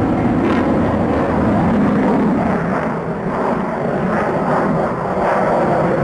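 Sukhoi Su-27 fighter's twin turbofan jet engines, a loud, steady jet noise as the aircraft flies its display, easing a little in the middle.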